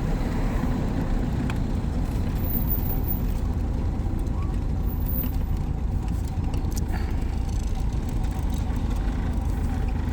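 Steady low rumble of a 1952 car running, heard from inside the cabin.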